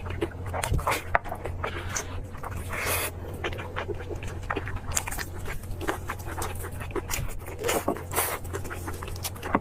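Close-miked chewing of meat: a busy run of wet mouth clicks, smacks and bites, over a steady low hum.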